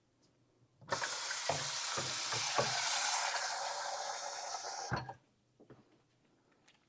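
Water running hard from a kitchen tap for about four seconds, turned on and off abruptly, with a few light knocks underneath.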